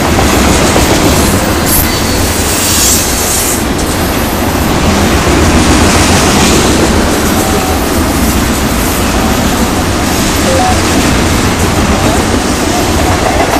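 Loaded freight train of tank cars rolling past close by: a steady, loud rumble of steel wheels on rail, with a few brief faint wheel squeals.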